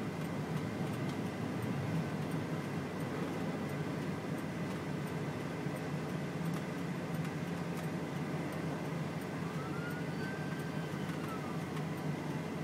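Steady low hum of a car's engine running, heard from inside the vehicle.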